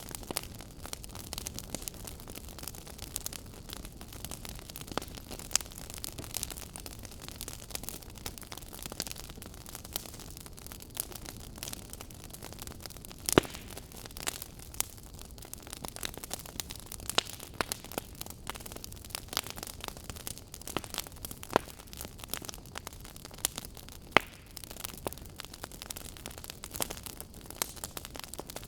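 Wood fire crackling: irregular sharp pops and snaps over a steady hiss, with a few louder pops, the sharpest about halfway through.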